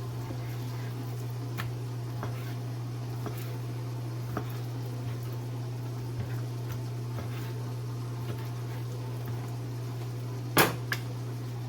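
Kitchen knife on a cutting board while chicken breast is cut into cubes: scattered light taps and one louder knock about ten and a half seconds in, over a steady low hum.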